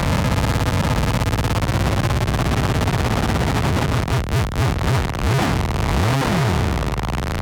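Novation Circuit groovebox playing a harsh, noisy synth drone patch: a dense wall of distorted noise that starts to pulse and flutter about halfway through, then breaks into swooping pitch glides that rise and fall near the end.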